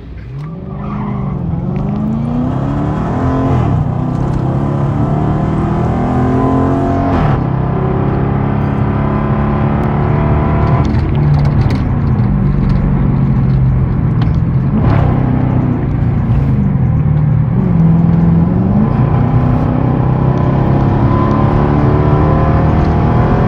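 A Dodge Challenger R/T's V8 and a sport bike engine at full throttle in a street run. The engine note climbs and drops back again and again as they shift up through the gears.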